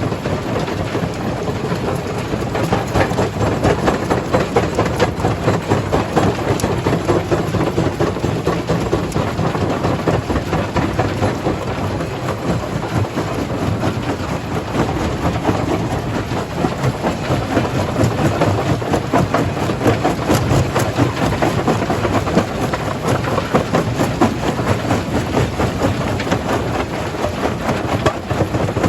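Primary jaw crusher working stone: a steady, dense rumble with continuous clattering and cracking of rock being broken.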